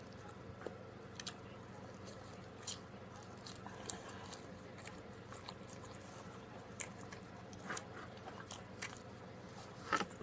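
A person chewing pepperoni pizza close to the microphone: soft, irregular mouth clicks and smacks over a faint steady hum, with a louder smack just before the end.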